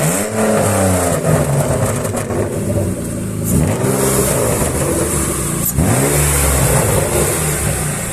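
Jaguar XJ's newly swapped-in engine revving up and dropping back several times as the car is driven.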